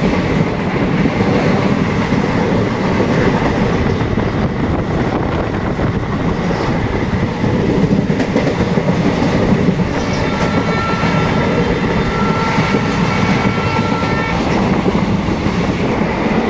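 Indian Railways passenger coach running at speed, heard at its open door: a steady rumble with wheels clattering over the rail joints. A thin steady high tone joins in for a few seconds past the middle.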